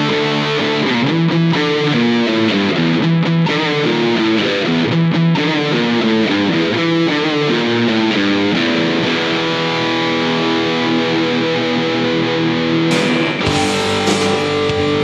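Electric guitar, a Gibson Les Paul Goldtop copy, played through distortion: sustained chords and single-note lines. The tone turns fuller and brighter about two seconds before the end.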